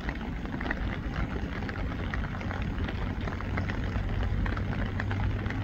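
Steady rain falling, heard as a dense patter of small drops, over a steady low hum.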